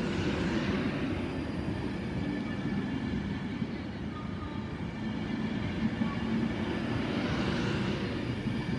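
Class 390 Pendolino electric train pulling out of the station: a steady low rumble of wheels on rail, with a rushing hiss that swells near the start and again about seven seconds in.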